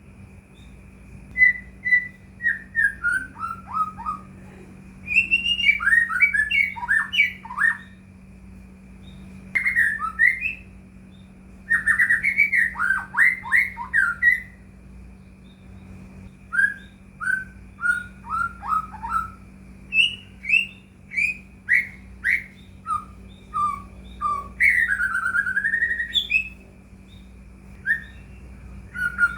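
White-rumped shama (murai batu) singing: phrases of clear whistled notes, many sliding downward, in bouts of a second or two with short pauses between. A faint steady high tone and a low hum run underneath.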